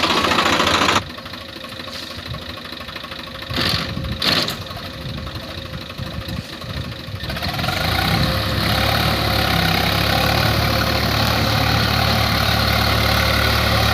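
Swaraj 744 FE tractor's diesel engine running. The sound drops abruptly about a second in, two short loud noises come just before and just after 4 s, and from about 7 to 8 s the engine runs steadily and louder with a deep hum.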